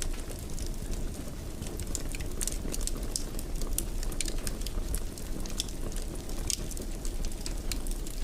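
Fire crackling in a fireplace: frequent sharp, irregular pops and snaps over a steady low rumble of the flames.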